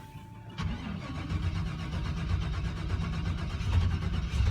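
Turbocharged LSX V8 in a Chevy Colorado cold-starting in sub-freezing cold with no cold-start tuning: it catches about half a second in and runs rough, clattering like a diesel, getting louder as it settles.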